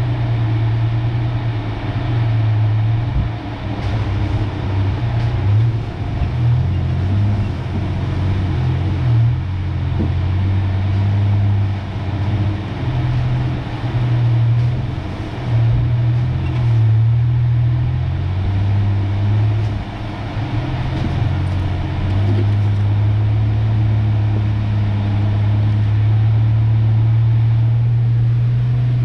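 A 1993 Ford Ranger pickup's engine drones at low speed on a rough trail. The drone wavers unevenly, with a few brief knocks, for most of the stretch, then settles into a steady tone for the last several seconds.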